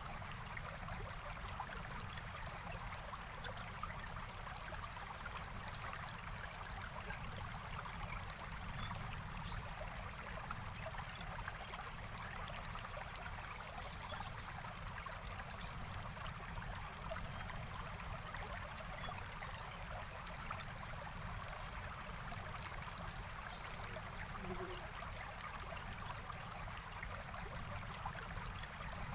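Forest stream flowing steadily over stones, a continuous trickling rush of water. A few faint, short high bird chirps sound now and then over it.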